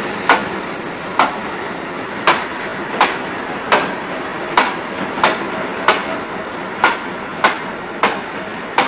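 Train wheels clicking over rail joints, sharp knocks a little more than once a second over a steady rolling rumble.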